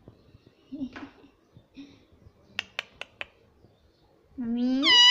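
Indian ringneck parrot making four quick sharp clicks, then a loud drawn-out call near the end that rises in pitch and then holds.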